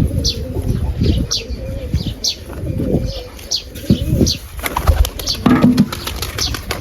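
Pigeons flapping their wings and cooing, with short high falling chirps about once a second.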